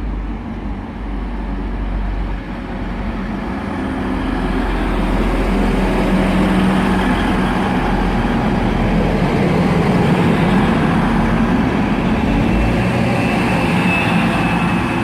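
Class 185 diesel multiple unit running under power, its diesel engines growing louder over the first few seconds and then holding a steady low hum and rumble.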